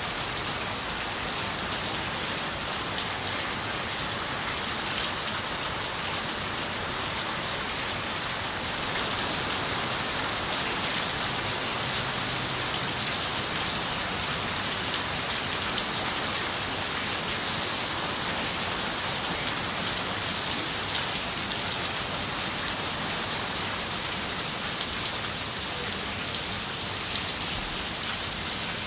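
Rain on a window, a steady dense patter with scattered sharper drop ticks. It gets slightly heavier about nine seconds in.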